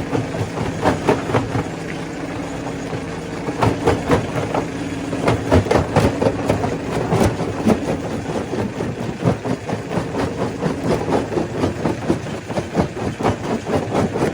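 Stone crusher machine running, a steady mechanical hum under a continuous irregular clatter of sharp knocks as rocks are broken.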